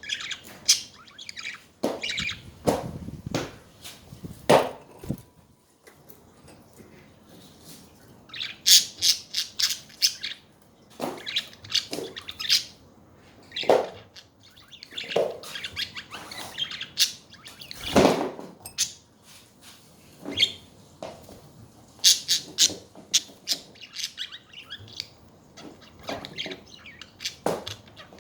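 Pet budgerigars chirping and chattering in bursts of quick, high chirps with occasional harsher squawks.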